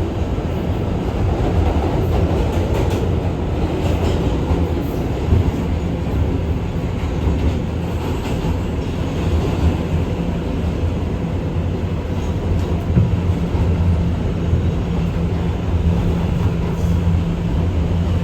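NYC Subway R211A car running along the track: a steady rumble with a low motor hum and a few short knocks from the wheels over rail joints.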